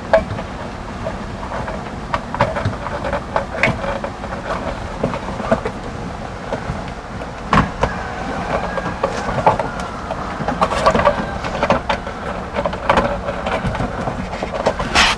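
Irregular clicks, taps and rustles of hands and tools working on an RV water heater's 110-volt wiring and junction box, over a steady low hum.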